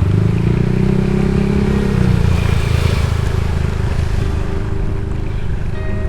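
Motorcycle engine running while riding, its note climbing for about two seconds and then dropping.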